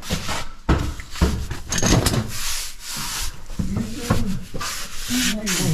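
A caver's body, clothing and gear scraping and rubbing over rock and sand while crawling through a tight cave passage, in a series of uneven scrapes. A voice sounds briefly about four seconds in and near the end.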